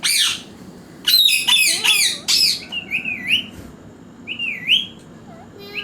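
Pet parrot squawking: a sharp high call at the start, then a quick run of four or five sharp squawks about a second in. After that come a few shorter wavering whistled calls, spaced a second or two apart.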